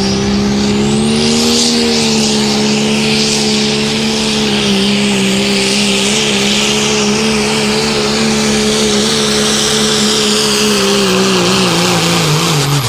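Diesel 4x4 pickup truck pulling a weight sled, its engine held at high, steady RPM in a low gear. The engine pitch sags near the end as the drag of the track pulls the truck down, then drops off sharply when the run ends.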